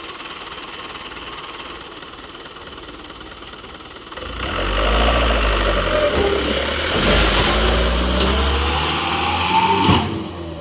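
Dump truck diesel engine idling, then about four seconds in it revs up loudly with a deep rumble and a slowly rising whine, holding for several seconds before dropping back near the end.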